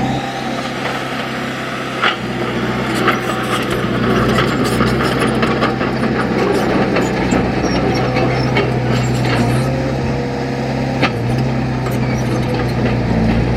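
Heavy earthmoving machine's diesel engine running steadily, with a few sharp knocks, the clearest about two, three and eleven seconds in.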